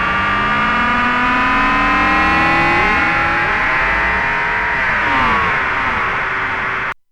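Jeannie polyphonic DIY synthesizer playing an effect patch: several pitched tones slowly glide up and down and cross one another over a noisy wash, giving an engine-like sweep. It cuts off abruptly near the end.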